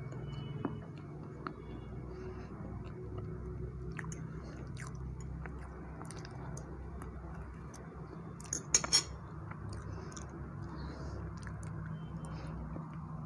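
Close-up mouth sounds of chewing soft black forest cake, with scattered small clicks. About nine seconds in come a quick few sharp clinks, a metal fork knocking on a ceramic plate.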